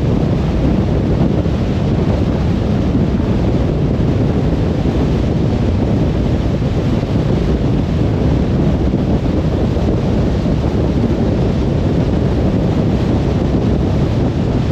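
Car driving steadily on a motorway: an even, low rumble of tyre and road noise mixed with wind, with no changes in speed or any separate events.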